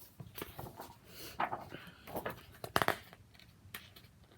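A few short paper rustles and taps from a picture book being handled and its pages turned.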